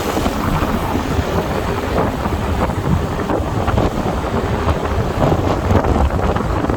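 Wind rumbling and buffeting on the microphone of a moving motorbike, over its engine and road noise.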